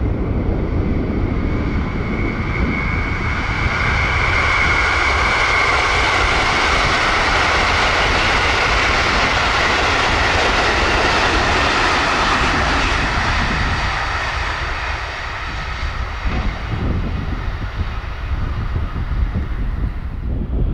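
A train passing at high speed, a loud rushing roar. It builds over the first few seconds, holds for about ten seconds, then falls away, with wind buffeting the microphone underneath.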